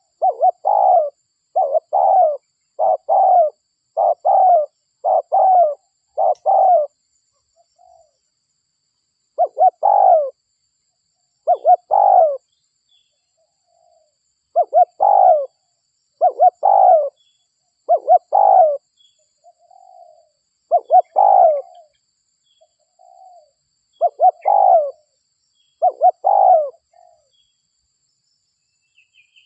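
Spotted dove (derkuku) cooing over and over as a luring call. A quick run of coos comes about once a second for the first seven seconds, then the coos come every second or two with short pauses. Faint high chirps sound now and then in the background.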